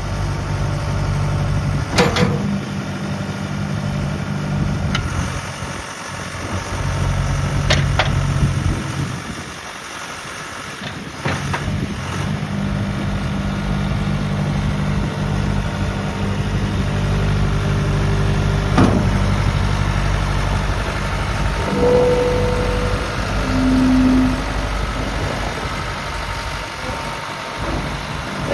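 John Deere backhoe loader's diesel engine running steadily, with a few sharp clanks scattered through. The engine note weakens for a couple of seconds near the middle.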